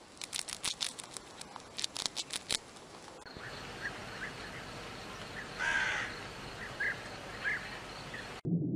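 A hamster gnawing: a quick run of sharp clicks for about two and a half seconds. Then a crow caws once, loudly, near the middle, followed by two short calls.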